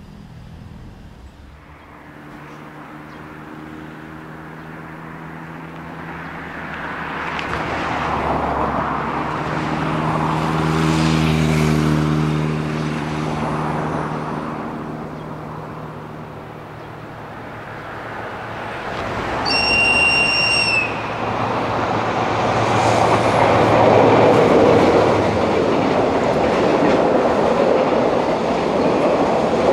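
A diesel train approaching: its engine note swells and then fades, a short high-pitched horn blast sounds about two-thirds of the way in, and the noise of the train rises loudly as it draws close.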